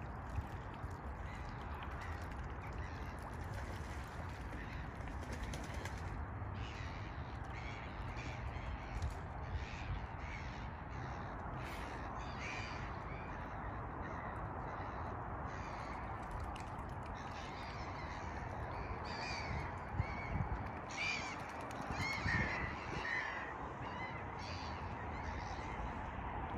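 Birds calling on open water, short scattered calls that come more often about twenty seconds in, over a steady low background rumble and hiss.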